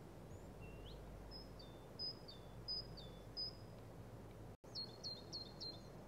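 Faint songbird song: a short high note that steps down in pitch, repeated about every two-thirds of a second, then a quicker run of four near the end, over a steady low background hiss.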